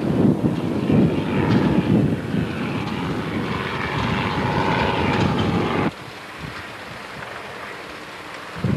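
Engine drone over a heavy low rumble of wind on the microphone; it cuts off abruptly about six seconds in, leaving a quieter background, and a short thump follows near the end.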